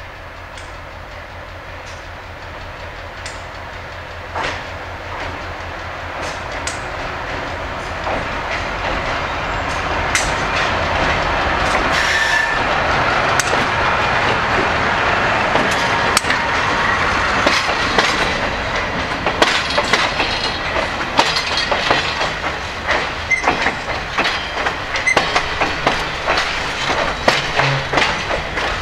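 Passenger train approaching and passing close overhead on a bridge. The diesel locomotive's engine rumble grows steadily louder, then from about halfway through the wheels clatter over the rail joints as the passenger cars roll by.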